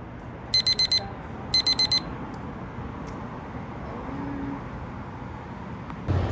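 Electronic alarm beeping: two bursts of four quick high-pitched beeps, about a second apart, like a digital alarm clock going off.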